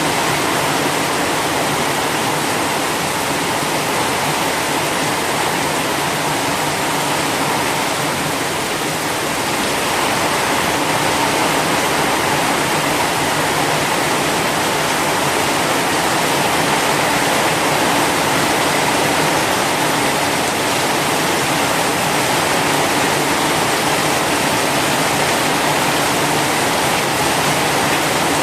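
Heavy rain falling steadily: a continuous, dense hiss of downpour with no breaks, growing a little louder about ten seconds in.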